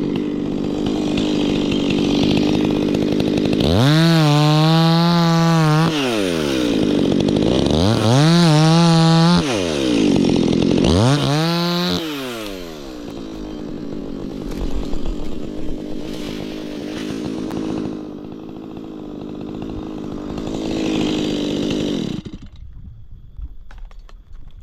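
Stihl MS 180 two-stroke chainsaw idling, revved up to full throttle three times for a second or two each, then dropping back to idle before the engine stops near the end.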